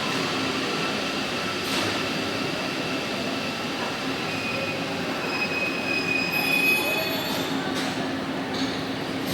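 Santiago Metro Line 1 rubber-tyred train running through the station as it pulls away, with steady high-pitched whining tones over a continuous rumble and a couple of brief knocks.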